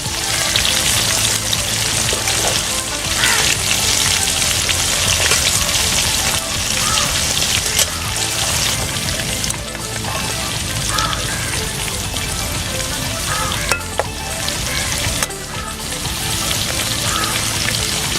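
Masala-marinated quail frying in hot oil, a steady loud sizzle with a few sharp ticks mixed in.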